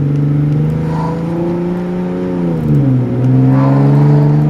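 Toyota Mark X V6 with a one-off custom exhaust, running under steady throttle while driving. About two and a half seconds in, the revs dip and then climb again, and the exhaust note grows louder.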